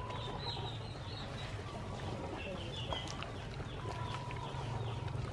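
Small birds chirping over and over in short, falling chirps, with a higher whistled note about four seconds in, over a steady low rumble.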